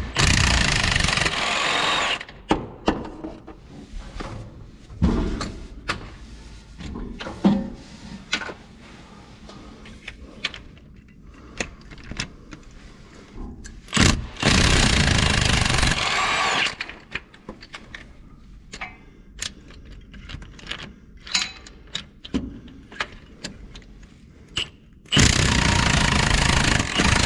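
A power wrench runs in three bursts of about two seconds each, loosening the top bell housing bolts on a transmission. Short clinks and knocks of tools and metal come between the bursts.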